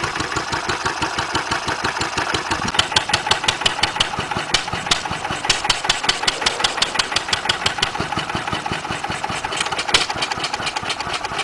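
Wolseley WD8 single-cylinder stationary engine running in a quick, even beat on the last of its fuel after the fuel tap is shut, with now and then a louder sharp stroke. It is starving of fuel and will soon stop; coughing and spluttering at this stage is usual.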